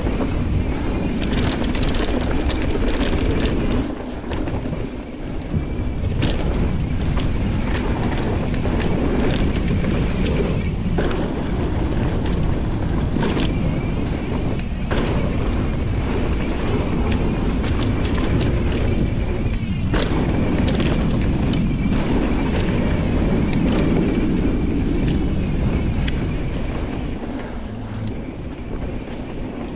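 Nukeproof Reactor full-suspension mountain bike ridden fast down a dirt trail: a steady rush of wind on the microphone and tyre noise, with frequent short clatters and knocks from the bike over bumps.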